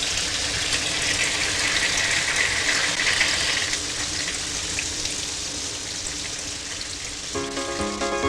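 Steady hiss of falling rain. Light musical notes come in near the end.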